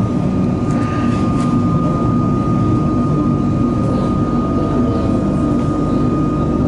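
Metro train running into a station, heard from on board or at the platform: a steady low rumble with a thin, steady high whine over it.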